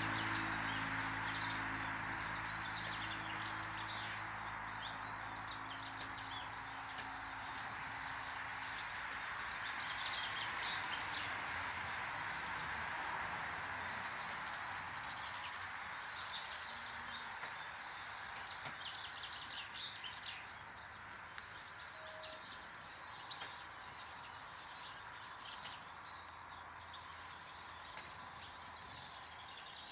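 Small garden birds chirping and twittering, with one louder call about halfway through, over a steady outdoor hiss. A low hum fades away over the first several seconds.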